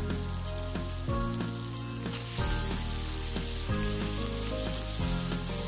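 Hot oil sizzling in a pan of fried shrimp as thinly sliced bitter gourd goes in; the sizzle grows brighter and louder about two seconds in.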